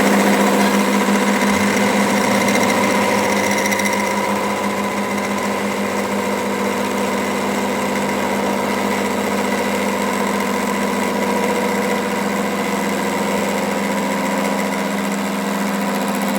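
A machine running steadily with a strong, even hum and a fast mechanical rattle.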